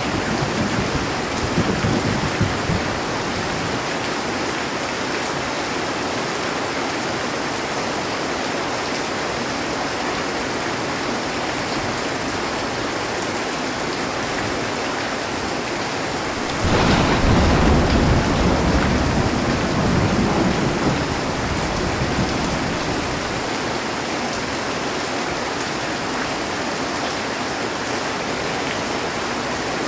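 Heavy rain falling steadily on a metal roof. A thunderclap rumbles in suddenly a little past halfway and rolls away over several seconds. The tail of an earlier rumble fades out at the start.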